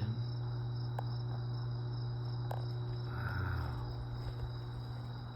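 Crickets chirping in a steady high trill over a steady low hum, with a few faint clicks.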